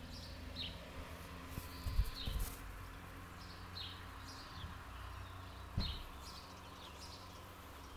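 Birds chirping here and there over a low outdoor rumble, with a few dull thumps, the loudest about two seconds in and again near six seconds.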